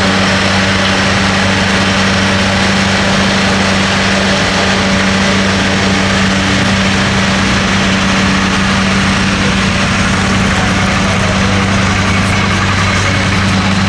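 Tractor engine idling steadily at constant speed, a deep even hum with no revving.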